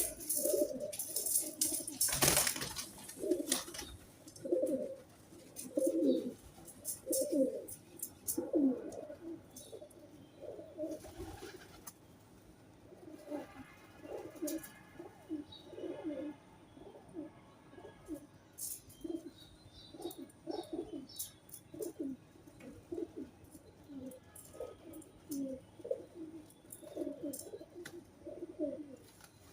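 Pigeons cooing over and over in low, repeated phrases. A brief loud noisy sound comes about two seconds in.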